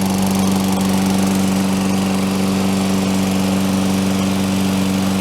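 Toro Recycler 20072 lawn mower's Tecumseh single-cylinder four-stroke engine running at a steady, even speed just after a pull start, sounding really good.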